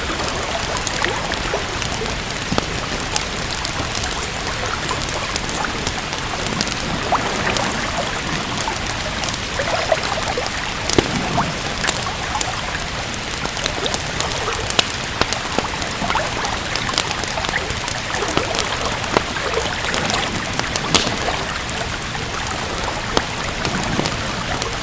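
Steady rain hiss with the irregular snaps and pops of a crackling wood fire in a fireplace.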